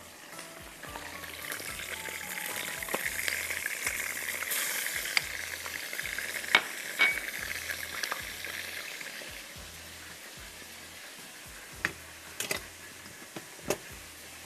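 Spice masala of ground red onion, chili powder, turmeric and salt sizzling in oil and water in a karahi-style pan as it is stirred. The sizzle swells about two seconds in and fades in the second half, with a few sharp clicks of the spoon against the pan.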